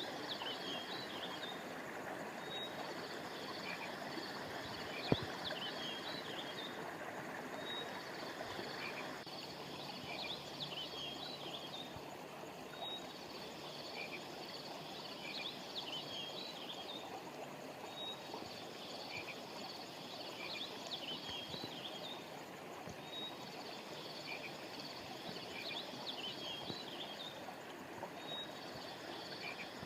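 Steady rush of a flowing river, with high chirping animal calls that come in bursts of a few seconds about every five seconds. A single sharp click about five seconds in.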